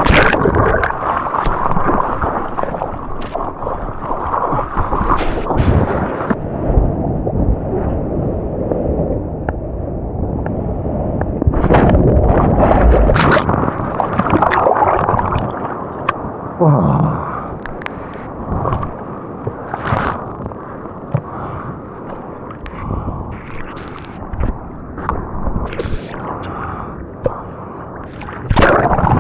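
Seawater rushing, splashing and sloshing right at the microphone of a camera carried in the surf, with wind buffeting the microphone; the water noise swells loudest about halfway through.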